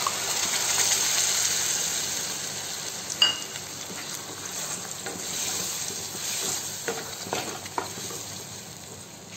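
Tomato purée sizzling as it hits hot butter and onion paste in a kadhai. The hiss is strongest at first and slowly dies down, with a few short knocks and scrapes as it is stirred in with a wooden spatula.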